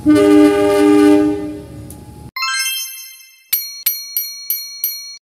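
A train horn sounds one steady blast of about two seconds. It is followed by a glittering chime run and then six quick, bright bell dings that stop abruptly.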